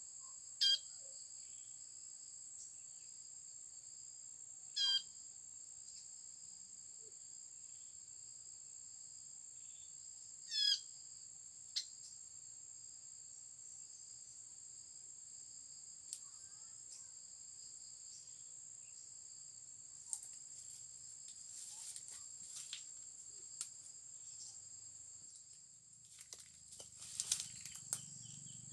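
Steady high-pitched insect drone, with a loud short bird call sweeping down in pitch three times in the first eleven seconds. Scattered clicks and rustling come near the end.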